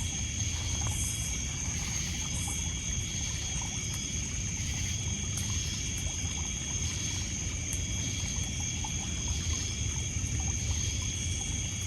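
Night shoreline ambience: a steady chorus of insects in several continuous high tones, over water lapping and trickling on a pebble beach. Scattered small crackles from a wood campfire run through it.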